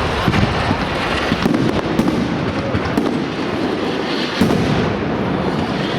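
Fireworks display going off: a dense, continuous run of bangs and crackle, with sharper reports about two, three and four and a half seconds in.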